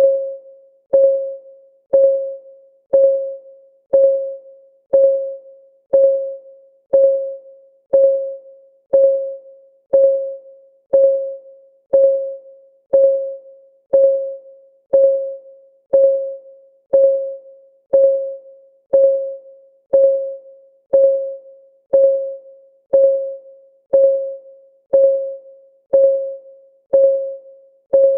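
Countdown timer's electronic clock-tick sound: one short, pitched tick exactly once a second, each dying away quickly.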